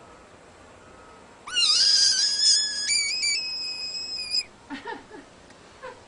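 An animal's high, whistle-like call, held for about three seconds, that jumps up in pitch about halfway through, followed by a few faint short sounds.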